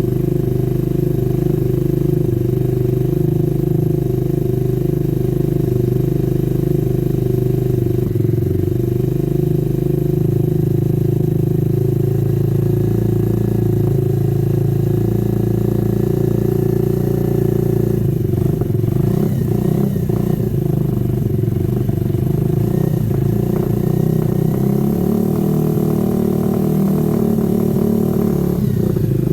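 Herald motorcycle engine idling steadily just after a cold start on a bit of choke, its note wavering slightly from about two-thirds of the way in. It runs smoothly, which the owner takes as fine.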